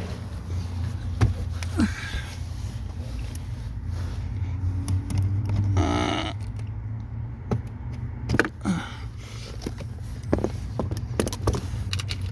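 Scattered clicks and knocks of hands working under a car's dashboard to pull the fuel pump relay, over a steady low hum.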